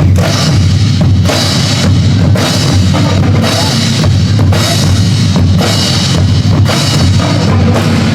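Marching band percussion playing loudly: bass drums pounding out a beat with snare strokes and cymbal crashes, starting abruptly just before and running on strongly.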